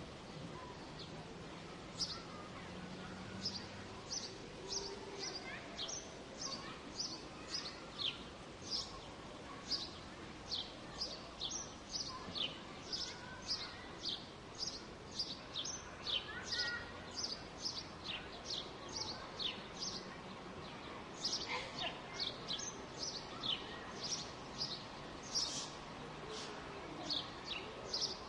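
Birds chirping over and over, short, high, falling notes roughly two a second, over a steady background hum of distant city sound.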